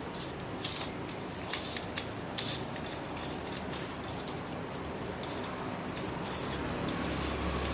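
Small metal parts of a pressure lantern clicking and clinking as the nut holding the burner neck is unscrewed and handled; scattered light ticks, most of them in the first three seconds.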